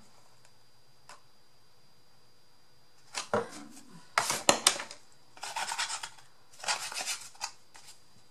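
Cardboard pieces being handled and worked on a tabletop: several short rasping, rubbing strokes in clusters with a few sharp clicks, starting about three seconds in after a quiet stretch.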